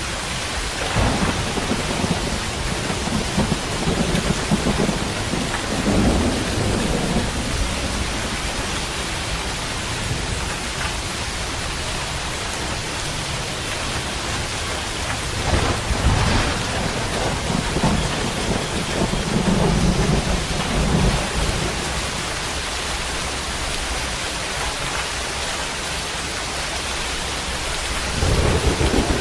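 Steady heavy rain with rolling thunder: long low rumbles swell up about a second in and last several seconds, come again from about fifteen to twenty-one seconds, and start once more near the end.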